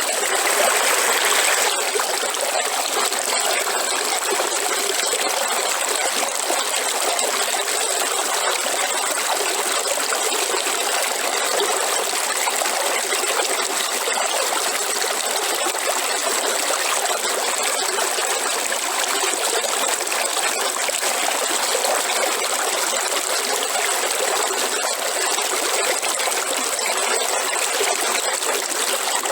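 River water flowing and trickling steadily, a continuous rush of running water.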